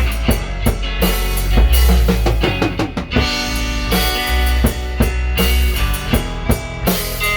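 Band music without vocals: a drum kit with bass drum and snare keeping a steady beat under pitched instruments.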